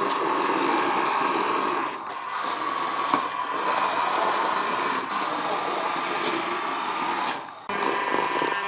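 A small motor running with a steady whir, briefly dropping away about two seconds in and again near the end.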